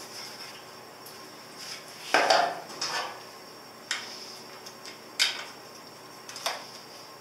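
Metal hand tools and motorcycle parts clinking and knocking together, about five separate sharp clinks spread a second or so apart, the loudest a little over two seconds in.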